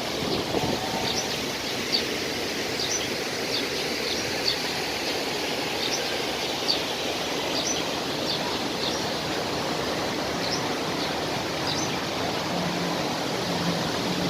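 Steady rush of a large waterfall, with a bird repeating short, high, rising chirps every second or so over it until near the end.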